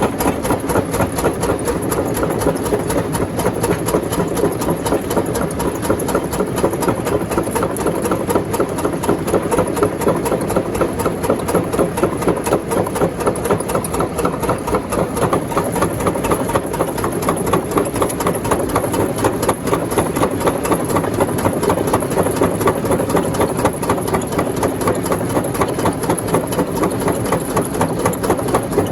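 Rock crusher machine running steadily, a heavy mechanical drone with a fast, even pulsing rhythm.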